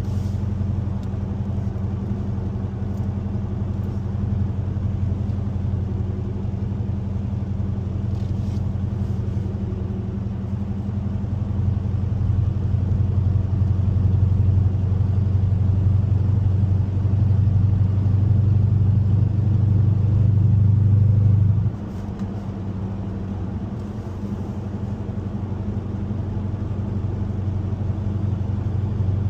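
Car engine running with a steady low rumble. It builds louder for several seconds, then drops off suddenly about 22 seconds in and carries on at a lower level.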